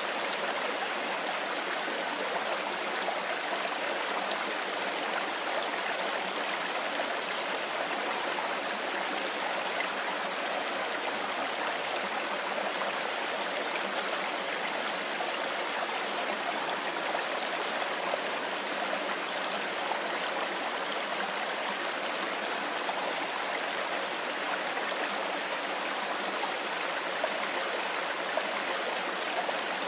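Mountain river flowing in a steady, even rush of running water, unchanging throughout.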